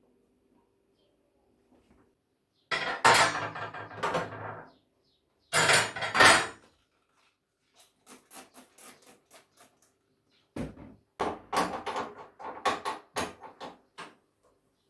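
Household items, likely dishes and kitchenware, being handled and put away: two loud clattering stretches, then a quick run of light clicks and knocks.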